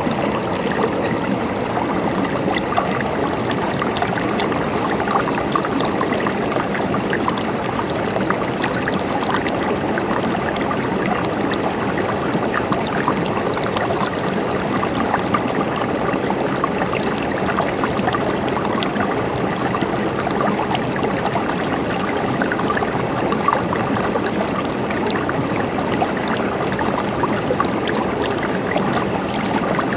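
Flowing water, like a stream running over rocks, with a steady rush and many small splashes.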